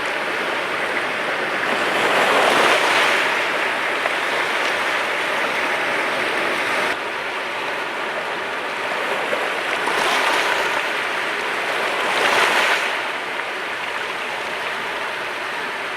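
Mediterranean sea waves washing onto the shore: a steady wash of surf with three louder breaking surges, one a couple of seconds in and two close together in the second half.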